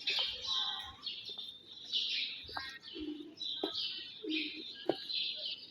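Birds chirping repeatedly in quick bursts, with a few low cooing calls of pigeons or doves in the middle and several sharp taps.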